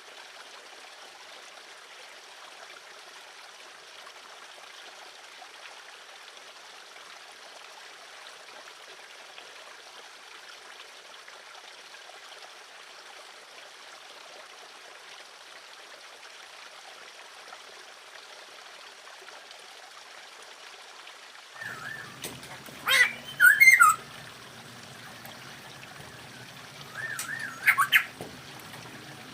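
A steady hiss, then poksay hongkong laughingthrushes calling: two loud harsh squawks and a couple of wavering warbled phrases in the last several seconds.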